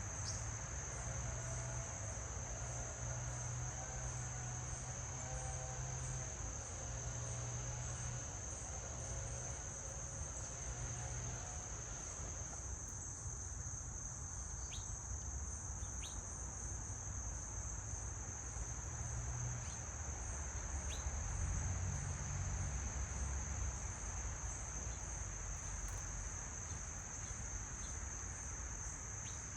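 A chorus of insects trilling steadily at one constant high pitch, over a low rumble, with a few faint short chirps about halfway through.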